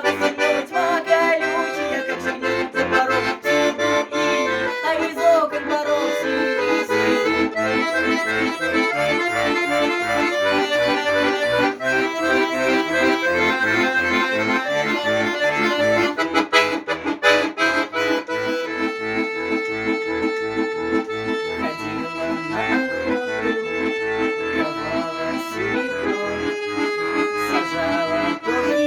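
Accordion playing an instrumental passage: a melody over sustained chords, with a steady, evenly repeating bass beat underneath.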